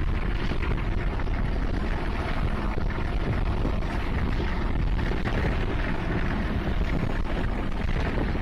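Passenger train running at speed, heard from an open coach window: a steady low rumble and rush of the moving train, with wind buffeting the microphone.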